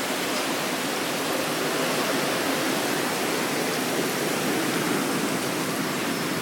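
Blizzard wind blowing as a steady, even hiss with no gusts.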